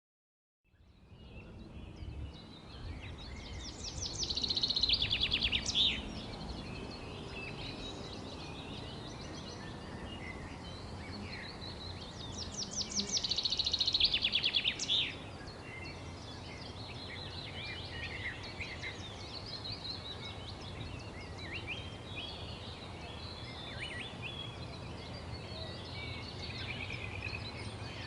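Songbirds chirping and calling over a steady low background rumble, with two loud rapid trills of about two seconds each, a few seconds in and again around the middle. The sound starts from silence just after the beginning.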